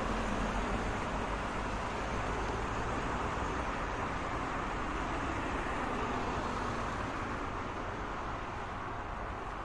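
Road traffic noise: a steady wash of passing cars and tyre noise with a low engine rumble, easing slightly toward the end.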